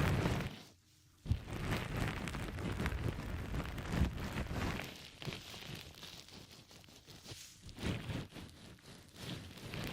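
Soft squishy ASMR objects squeezed and pressed against the microphone: sticky, crackling squelches in uneven strokes, with a brief pause just before a second in.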